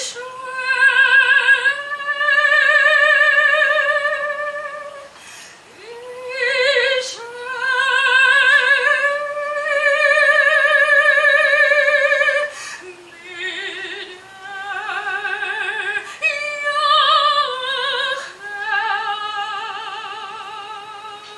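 A woman singing solo in an operatic style, with long held notes and wide vibrato; the melody drops lower about two-thirds of the way through.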